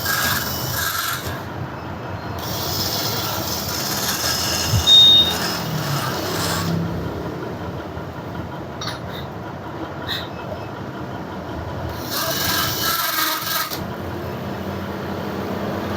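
Rasping, scraping tool work on a motorcycle swing arm bushing, coming in stretches of a few seconds with quieter gaps between.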